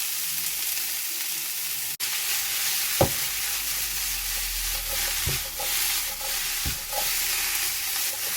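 Vegetables sizzling as they are stir-fried in a very hot pan of sesame oil, a steady frying hiss with a few sharp knocks of the utensil against the pan.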